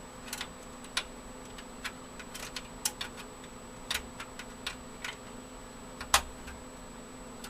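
Irregular sharp metal clicks and taps from a computer case's expansion-slot shield being taken out and fitted into another slot, with the loudest click about six seconds in.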